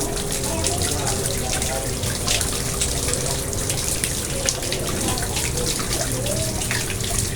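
Water trickling and splashing steadily into a garden pond, with many small drops pattering.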